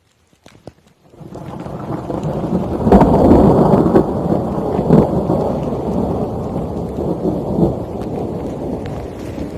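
A long rumble of thunder that builds up about a second in and is loudest around three and five seconds.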